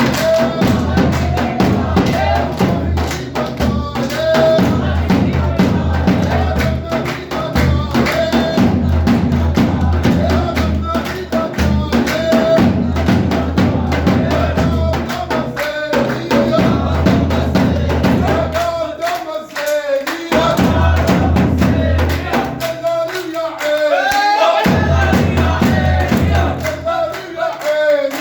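A man singing a Levantine radda folk chant over heavy, steady drumbeats, with a crowd in the background.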